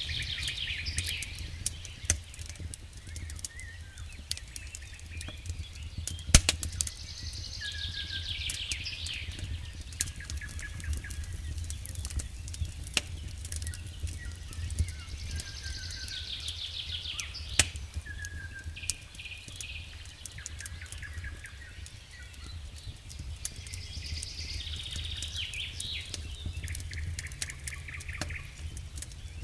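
Campfire crackling with scattered sharp pops, over a steady low rumble. A songbird sings a trilled phrase that falls in pitch, repeated about every eight seconds, with short chirps in between.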